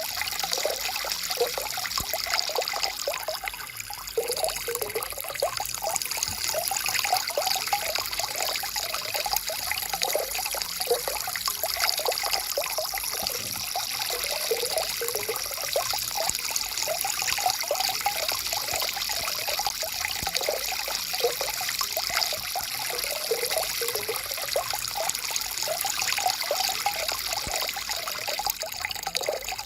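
Stream water flowing and trickling over stones, a steady babbling with continuous bubbling and splashing.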